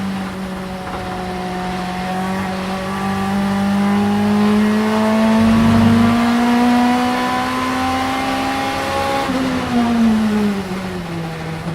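Vauxhall Vectra Super Touring race car's 2.0-litre four-cylinder engine under load, its pitch climbing slowly for about nine seconds, then falling quickly as it comes off the throttle and settling to a lower steady note near the end.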